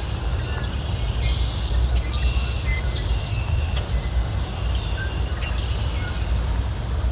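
Birds chirping and calling, many short high notes scattered throughout, over a steady low rumble.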